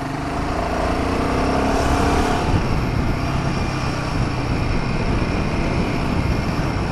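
Royal Enfield Himalayan 450's single-cylinder engine pulling while riding, with wind and road noise over the microphone. The engine note rises a little over the first two seconds or so, then the engine runs on steadily under the wind noise.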